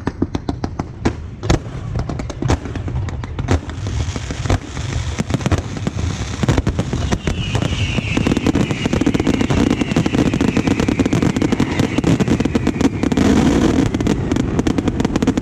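Aerial fireworks bursting in a rapid string of bangs and crackle, growing denser and louder from about eight seconds in.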